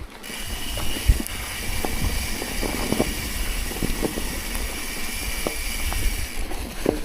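A vehicle moving through snow: a steady high-pitched whine starts just after the opening and cuts off about six seconds in, over a low rumble with scattered knocks and bumps.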